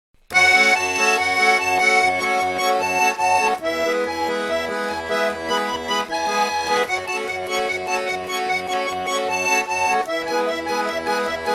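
Instrumental song intro led by an accordion playing sustained chords that change every few seconds, over a steady pulsing bass beat.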